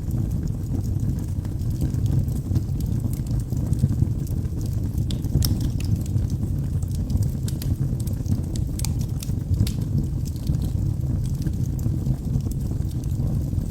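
Wood logs burning in a fireplace: a steady low rumble of flame with irregular sharp crackles and pops scattered throughout.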